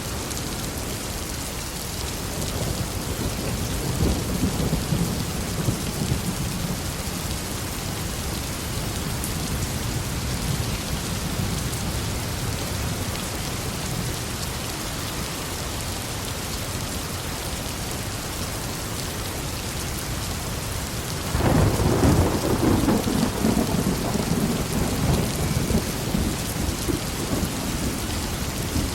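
Steady heavy rain falling, with rolling thunder: a soft rumble swells and fades in the first few seconds, then a louder thunderclap breaks suddenly about three quarters of the way through and rumbles on for several seconds.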